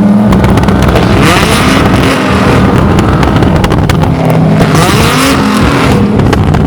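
A lineup of tuned performance cars, including a Nissan GT-R, a Skyline and Mustangs, revving hard together on the limiter, with engine pitch rising and falling, and repeated exhaust bangs and pops from cars set up to spit flames.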